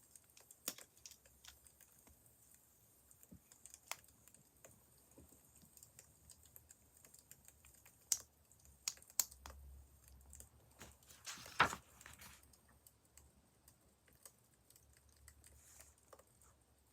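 Wood fire crackling faintly, with scattered sharp pops at irregular intervals and a short, louder flurry of crackles about two thirds of the way through.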